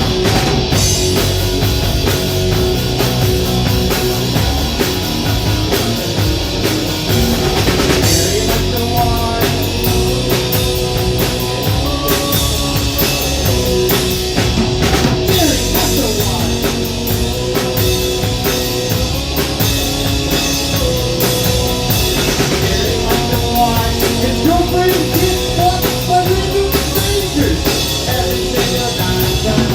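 Rock band playing live, with a full drum kit and distorted electric guitar driving a steady, loud song.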